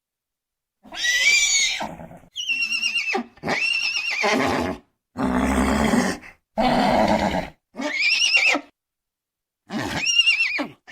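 Horse neighing and whinnying: about seven separate calls of roughly a second each with short silent gaps between them. Several calls are high and wavering, while some sit lower and rougher.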